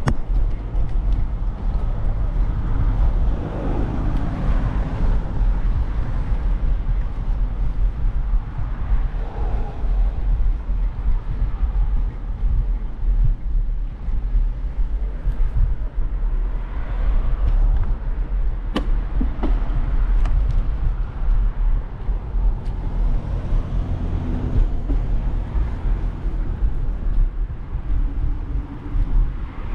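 Riding noise from a moving bicycle: a steady, gusty low rumble of wind on the microphone and tyres rolling on the path, with a single sharp click a little past halfway.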